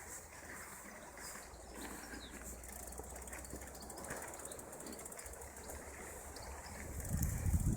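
Faint rustling with scattered small ticks and clicks over a low rumble, growing louder near the end.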